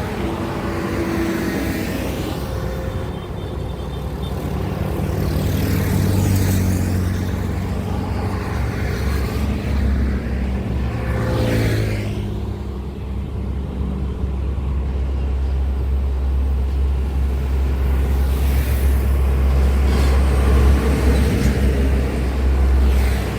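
Road traffic with heavy trucks passing one after another: a low, steady engine drone, with a vehicle swishing past every few seconds.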